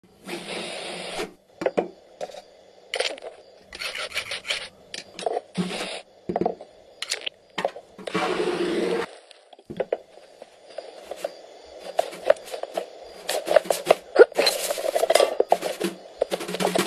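Drum kit and percussion struck in short, irregular hits and brief noisy washes, standing in for a film's sound effects. A longer wash comes about halfway through, and a dense run of quick strokes follows near the end.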